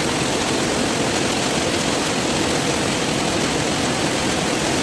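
Steady rushing of a waterfall, an even roar of falling water that holds constant throughout.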